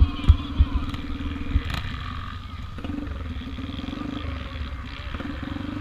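Small single-cylinder pit bike engine running under riding load, its note dipping briefly about halfway and picking up again, with several sharp low thumps in the first second and a half.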